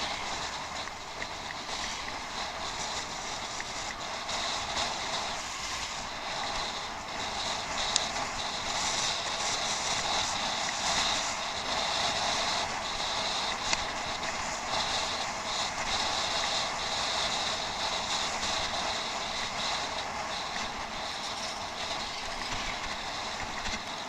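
Bicycle riding on a rough track: steady rolling noise of the tyres, with scattered clicks and rattles from the bike.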